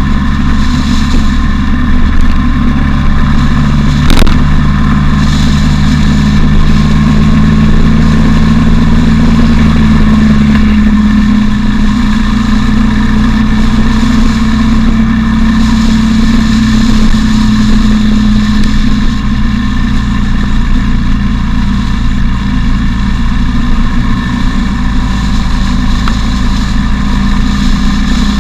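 Motorcycle engine running steadily under way, with wind noise over the bike-mounted camera. About ten seconds in, the engine note drops to a lower pitch. A single sharp click comes about four seconds in.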